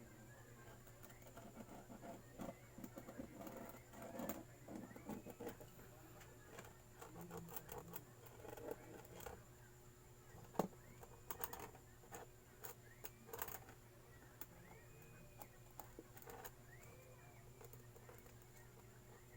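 Faint, irregular clicking, tapping and scraping of hand work on a homemade engine gasket, with one sharper tap about ten seconds in.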